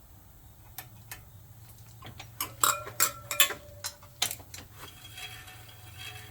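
Sharp metallic clicks and clinks from tools working on a bicycle disc brake caliper as its pad is adjusted. There are a couple of single clicks about a second in, then a quick cluster of louder clicks, some briefly ringing, between two and four seconds in.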